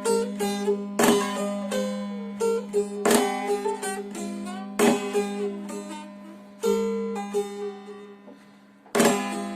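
Three-stringed kopuz (Turkish long-necked saz) played solo. Sharp strummed strokes every second or two ring out and fade over a steady open-string drone, with plucked melody notes moving between them.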